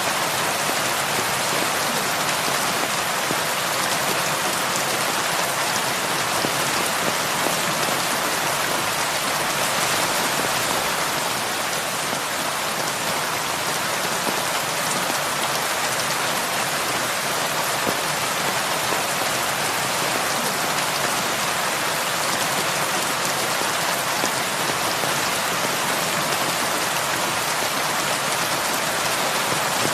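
Heavy rain falling steadily on a roof, an even unbroken hiss.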